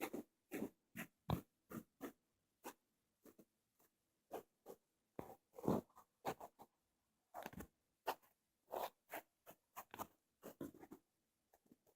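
Close-miked ear-cleaning ASMR: short, irregular scratching and crackling strokes with silence between them.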